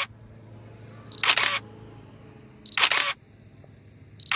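A camera taking photos: a short high beep, then the shutter firing, repeated about every second and a half. The shutter fires three times, the last near the end.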